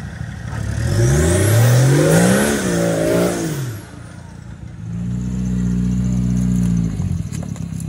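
Off-road 4x4 engines revving hard on a muddy hill climb. An engine revs up and down several times over about three seconds. After a short lull an engine holds high, steady revs for about two seconds, then drops back near the end.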